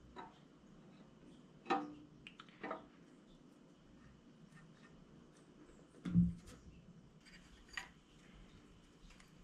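Scattered metal clinks and knocks, with one duller, heavier thud about six seconds in: metal parts and tools being handled on a workbench.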